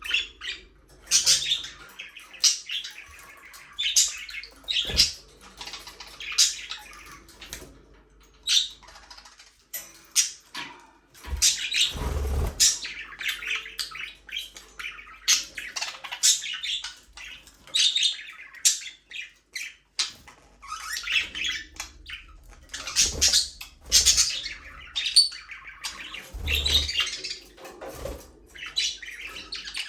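Budgerigars chattering and chirping continuously in an aviary, a busy tangle of quick, high warbles and squawks from several birds, with a few soft low thumps.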